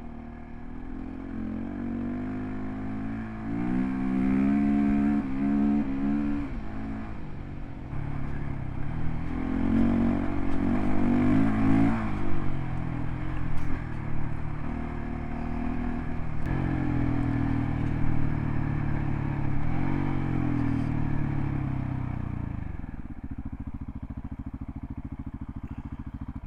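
Single-cylinder adventure motorcycle engine under way, its revs climbing and dropping back several times as it accelerates and eases off, then running more evenly at lower revs for the last few seconds.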